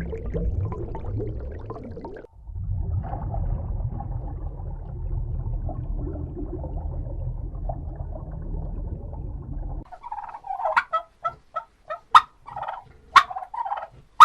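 A steady low rumbling noise, broken briefly about two seconds in, gives way about ten seconds in to a domestic turkey gobbling: a rapid, choppy run of calls with sharp clicks.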